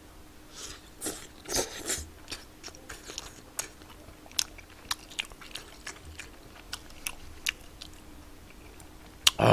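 A person chewing and biting spicy tteokbokki close to the microphone, with irregular wet mouth clicks and smacks.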